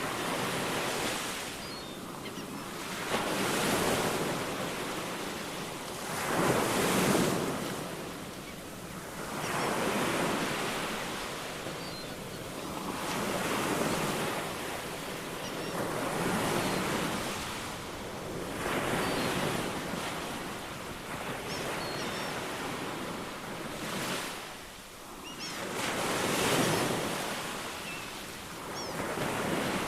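Ocean waves breaking and washing in, in swells that rise and fall about every three seconds. Faint short, high chirps come through now and then.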